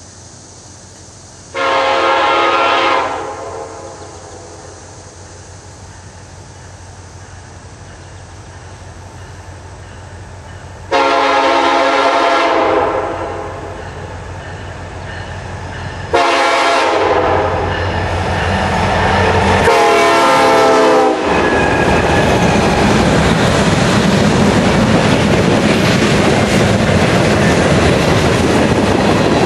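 Norfolk Southern freight train approaching and sounding its locomotive's multi-tone air horn in the grade-crossing pattern: two long blasts, a short one and a long one. The diesel engines' rumble grows louder under the horn. After the last blast the train is passing close by, its wheels rumbling and clattering over the rails as the tank cars roll past.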